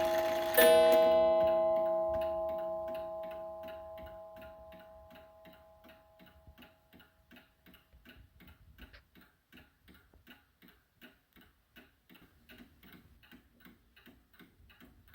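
Seth Thomas beehive mantel clock striking once about half a second in, the tone ringing out and fading over several seconds, while the movement ticks steadily.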